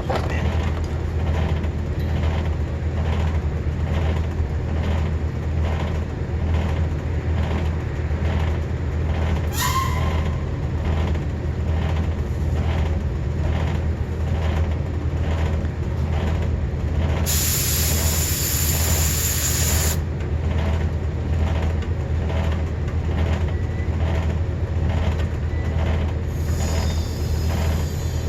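Steady low hum of running refrigeration machinery, with a loud hiss of gas lasting about three seconds roughly two-thirds of the way through.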